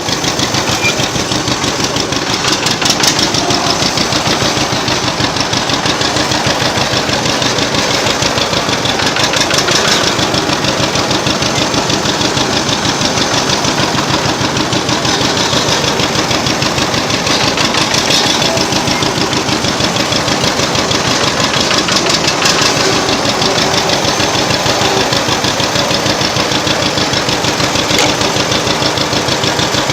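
Old engine of the tractor being driven, running steadily with a fast, even chugging beat.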